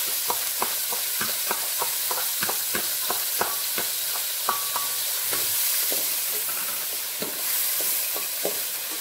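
Dried whitebait (teri nasi) frying in oil in an aluminium wok: a steady sizzle dotted with frequent sharp crackles and pops. Near the end a spatula stirs the fish in the pan.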